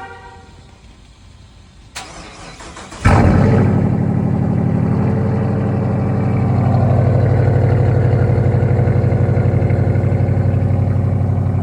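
A 2019 Dodge Charger R/T's 5.7-litre HEMI V8, exhaust opened up by a mid-muffler and resonator delete, cold-starting: a short horn toot at the very start and a click about two seconds in, then the engine catches with a loud burst about three seconds in and settles into a steady, loud fast idle.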